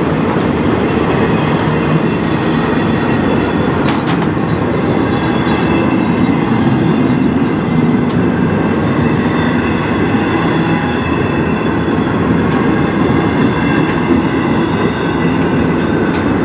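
Freight train of autorack cars rolling past close by: a steady rumble and rattle of steel wheels on rail, with a sharp clack about four seconds in. Faint thin high squeal tones from the wheels join about halfway through.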